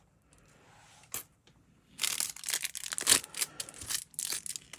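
Plastic lure packaging being crinkled and torn open by hand. A faint rustle and a click come first, and from about two seconds in there is dense, irregular crackling.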